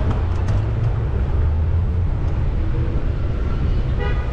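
Steady low rumble of wind buffeting the microphone and street traffic while riding a bicycle, with a brief pitched tone near the end.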